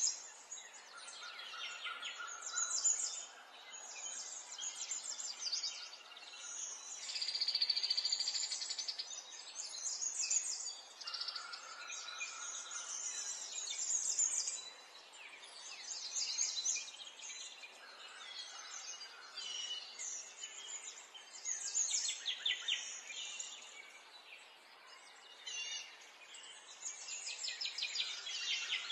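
Birdsong: phrases of high chirps and rapid trills, one after another, with short pauses between them.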